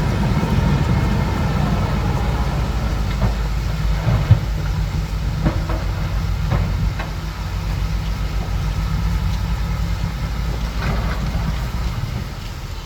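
Bulldozer's heavy diesel engine running steadily, with a few sharp metallic clanks, the loudest about four seconds in.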